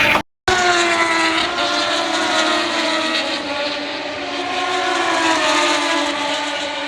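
An engine droning steadily, several tones together sliding slowly down in pitch over a few seconds, after the sound cuts out for a moment near the start.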